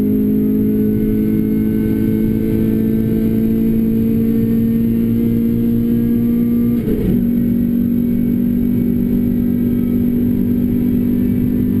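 Renault Clio RS four-cylinder engine with a Bastuck aftermarket exhaust pulling hard under load, its note climbing slowly. About seven seconds in there is a quick upshift: a brief break and small drop in pitch, then the engine pulls again.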